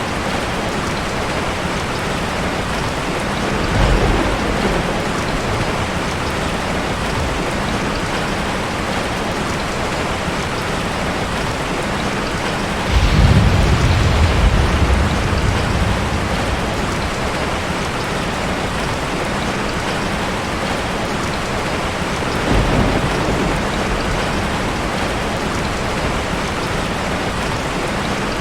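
Steady rain falling, with thunder rumbling three times: briefly about four seconds in, longest and loudest around the middle, and again more faintly later on.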